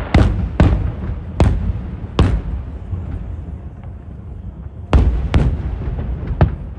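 Aerial firework shells bursting: about seven sharp booms, each trailing off in a rolling echo, with a lull of two seconds or so in the middle.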